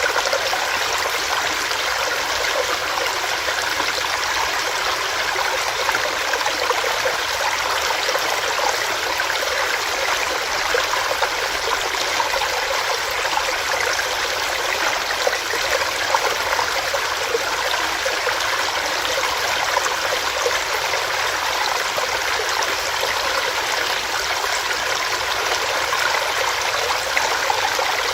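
Small rocky stream running steadily over rocks, a continuous rushing and babbling with many small splashes.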